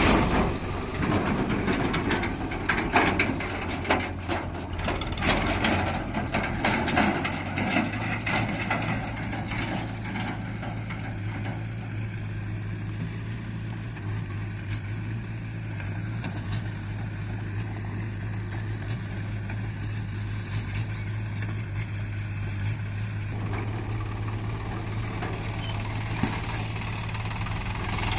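Heavy diesel engine of working machinery running. Irregular clatter and knocks fill the first eight seconds or so, after which the engine settles into a steady low hum.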